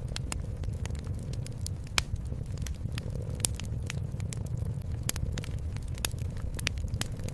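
Wood fire in a fireplace crackling, with irregular sharp pops, the sharpest about two seconds in, over a steady low rumble.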